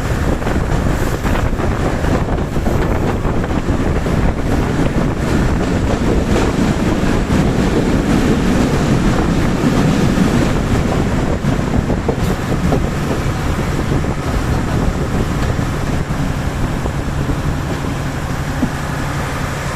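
Passenger train rolling along the tracks with a continuous heavy rumble, mixed with wind buffeting the microphone; the rumble is strongest about halfway through and eases toward the end, where some steady tones come in.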